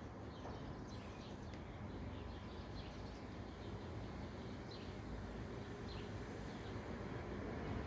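A bird chirping faintly, a few short high chirps spaced irregularly, over a low steady background hum.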